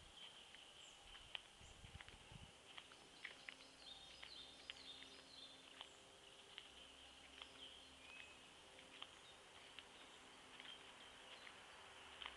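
Faint forest ambience: small birds giving short, scattered chirps over a steady high insect trill, typical of a grasshopper in the grass. A few soft low thuds come in the first couple of seconds.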